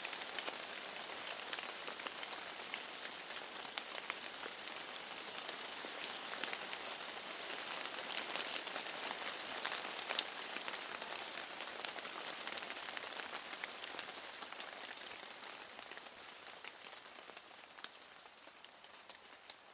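Steady rain falling, a dense hiss with many small drop taps, getting quieter over the last few seconds.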